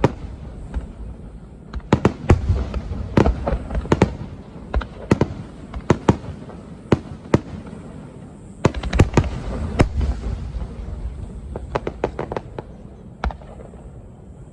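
Aerial fireworks bursting: volleys of sharp bangs with rumbling echoes, coming in clusters with short lulls between, and a last single bang near the end.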